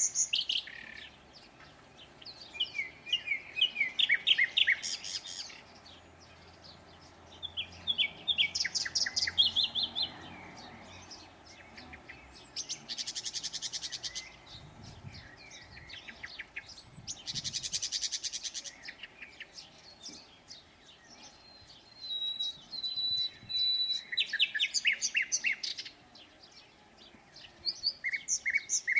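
Songbirds singing in springtime, short chirping phrases of two or three seconds that come back every few seconds. Around the middle two of the phrases are fast buzzy trills.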